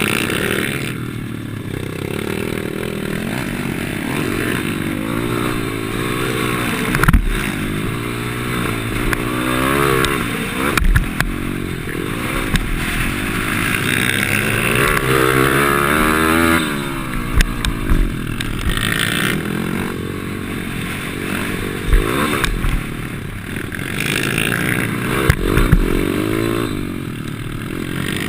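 Pit bike's small single-cylinder four-stroke engine revving up and falling back again and again through the gears at race pace, with wind hiss on the microphone. Several sharp knocks cut through, the loudest at about 7, 22 and 25 seconds in.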